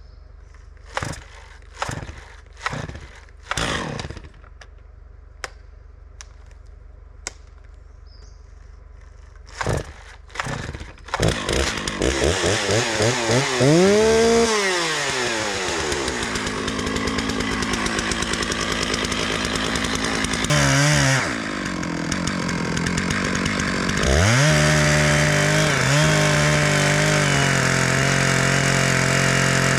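A few knocks and clunks, then a chainsaw pull-started, catching about eleven seconds in. It revs up and down, dips briefly, and from about twenty-four seconds runs steadily at high revs.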